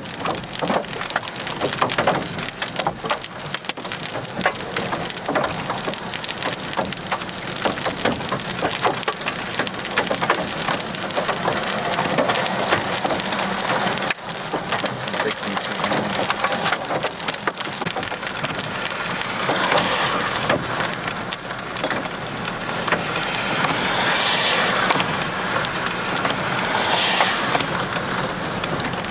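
Hail and heavy rain pelting a vehicle in a dense, continuous clatter of hard little impacts, swelling louder twice in the second half.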